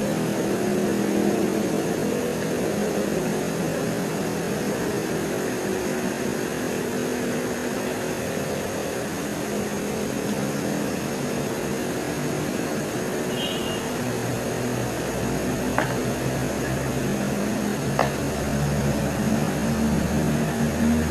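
A steady low engine-like drone whose pitch shifts and grows stronger near the end, over a constant high thin tone and hiss. Two sharp clicks come in the last few seconds.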